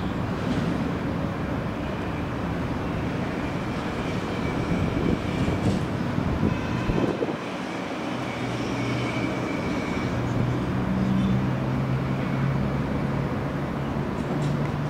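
Long freight train of open wagons rolling past on the rails: a continuous rumble of wheels on track with some irregular clatter near the middle, and a steady low hum from about halfway through.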